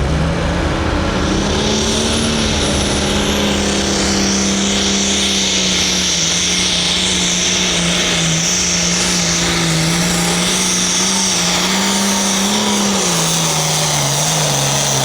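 Hot farm pulling tractor's turbocharged diesel engine held at high revs under load, with a steady high hiss over it. The pitch holds with small wavers, then sags lower near the end.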